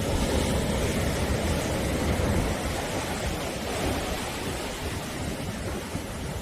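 Sea surf: waves breaking and washing onto the shore as a continuous rushing, a little louder over the first couple of seconds and then easing slightly.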